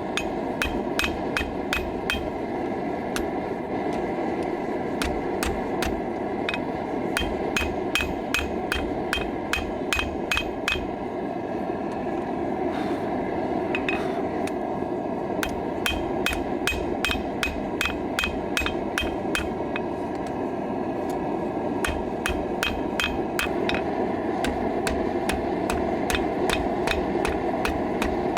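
Hand hammer striking hot steel on an anvil in a steady rhythm of about two to three blows a second, flattening a horseshoe's drawn-out end into a knife blade, with a couple of short breaks in the hammering. Under it the steady roar of the running forge.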